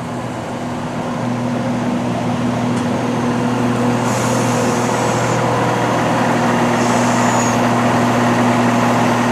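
Diesel multiple unit train running, heard from inside the carriage: a steady engine and transmission drone that grows louder over the first two seconds as it pulls along, with two brief high-pitched hisses or squeals in the middle.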